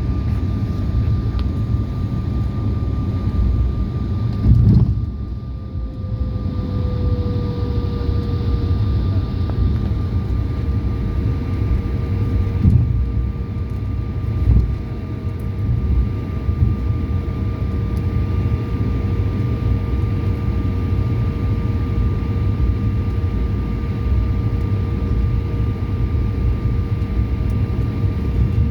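Airliner's engines heard inside the cabin: a steady rumble with constant whining tones, one tone sliding down in pitch about five seconds in. A short thump comes just before the slide, with smaller bumps a few seconds later.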